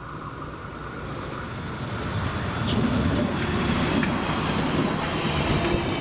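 Train approaching the level crossing: a rumble that grows louder over the first two or three seconds, then runs loud with a few sharp rattles and clicks.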